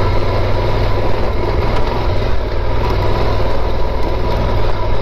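Yamaha Super Ténéré 1200's parallel-twin engine running steadily under the rider on a dirt trail.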